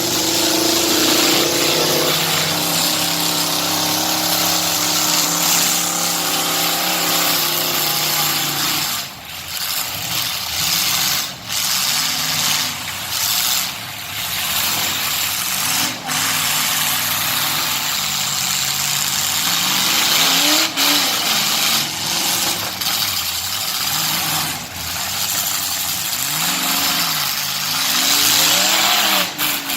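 Truck engine running loudly at steady revs for about nine seconds, then revving up and down repeatedly.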